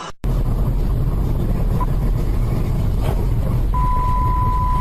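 Steady low rumble of a moving car's engine and road noise. A short electronic beep sounds about two seconds in, and a long steady beep starts near the end.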